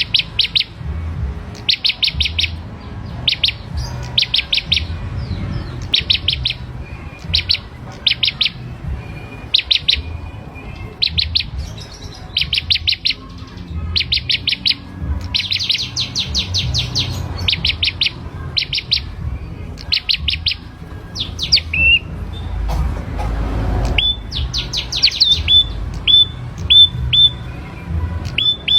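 Prenjak kepala merah, a small songbird, singing persistently: short, rapid trills of high notes repeated about once a second. Near the end it switches to single short call notes, about two a second.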